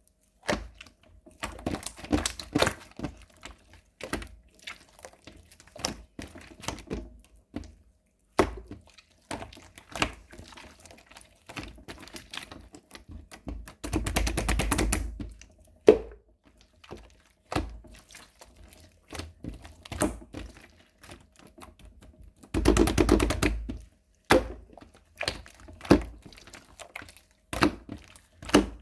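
Runny purple slime being squished and stretched by hand, making wet clicks and pops, with dense runs of rapid popping about halfway through and again near the end.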